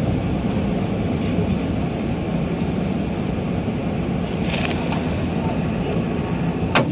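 Nagoya Subway Tsurumai Line 3000 series train running through the tunnel, heard from inside the car: a steady rumble of wheels on rail, with a brief hiss about two-thirds of the way through and a single sharp click near the end.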